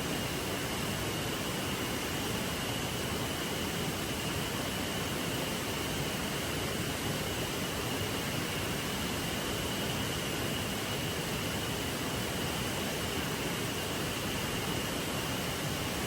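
Steady rush of a flowing river, an even unbroken wash of water noise with a faint thin high tone running through it.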